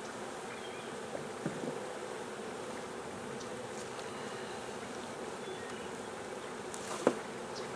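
A swarm of honeybees buzzing steadily around an open hive, with a few light knocks and one sharp knock near the end as hive parts are handled.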